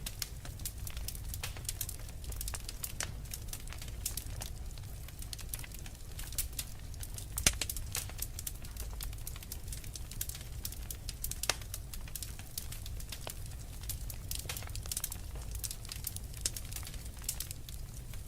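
Fire in a fireplace crackling steadily, with many small irregular pops over a low rumble. A louder single pop comes about seven and a half seconds in.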